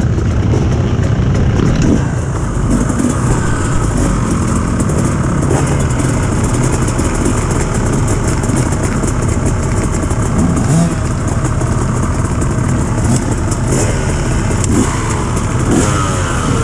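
Dirt bike engine running steadily, with a few brief revs that rise in pitch near the end.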